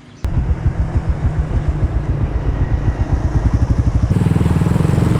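Motorcycle engine running with a fast, low pulsing beat that cuts in abruptly and quickens slightly. About four seconds in it changes to a steadier drone.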